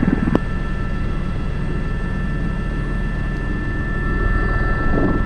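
Airbus H125 (AS350 B3) helicopter heard from the cockpit in flight: a steady turbine whine over the pulsing beat of the main rotor, with a single click near the start. The helicopter is carrying a heavy external sling load of about 1,100 kg.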